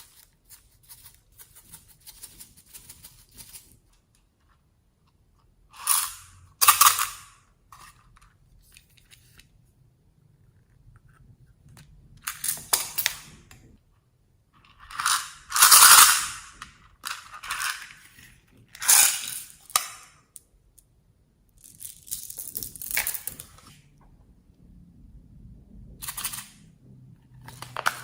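Slime being handled and mixed by hand: a series of irregular crackly, squishy bursts with short quiet gaps, the loudest about halfway through.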